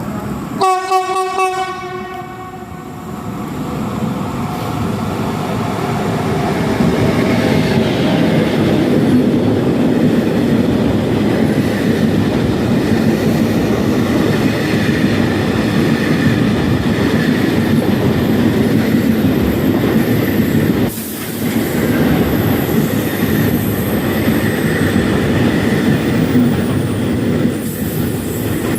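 A train sounds a short horn blast about a second in, then passes through the station with a loud, steady rumble of wheels on rail. The rumble dips briefly about twenty-one seconds in.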